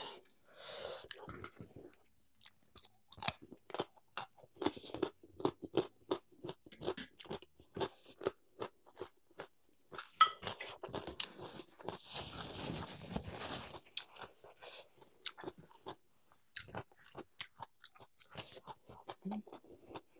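A person chewing and crunching mouthfuls of food, with many short crisp clicks of bites and chews, and a longer patch of rustling noise about twelve seconds in.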